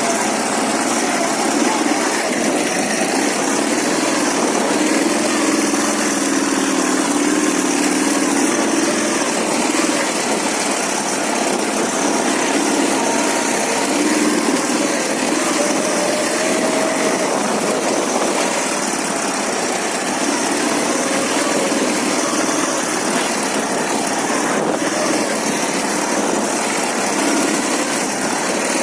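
Ural motorcycle's air-cooled boxer twin engine running steadily, its pitch drifting up and down.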